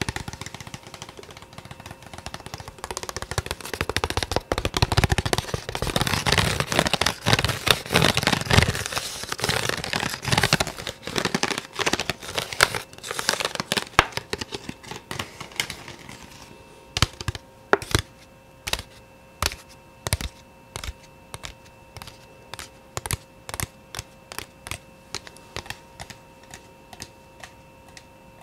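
ASMR tapping: a dense flurry of fast tapping and rustling, which about halfway through thins out to single sharp taps about two a second over a faint steady tone.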